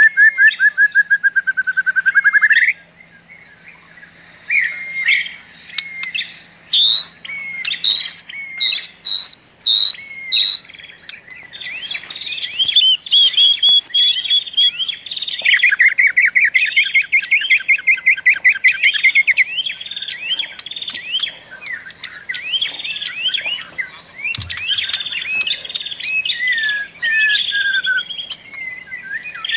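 Songbirds singing: rapid trills and strings of repeated chirped notes, with short pauses between phrases.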